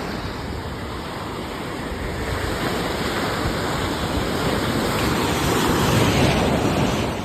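Sea waves washing in on the shore, a steady surf rush that builds to a swell about six seconds in and then eases off.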